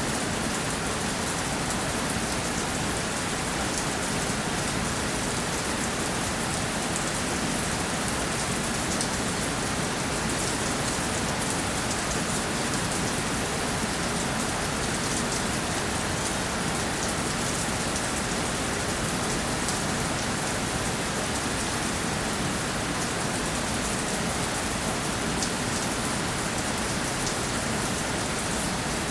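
Steady rainfall pattering on a surface, an even hiss with many fine drop ticks and no change in strength.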